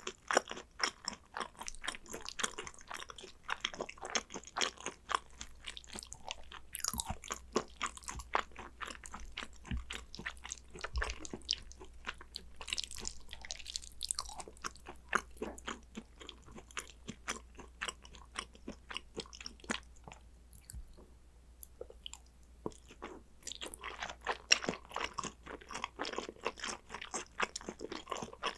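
Close-miked chewing and eating of Korean raw beef tartare (yukhoe): a dense run of quick wet mouth clicks, thinning out for a few seconds past the middle before picking up again.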